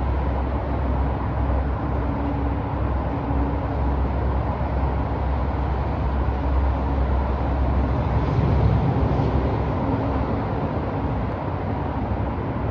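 City street traffic: a steady low rumble of engines and tyres, swelling as a heavier vehicle passes about two-thirds of the way through.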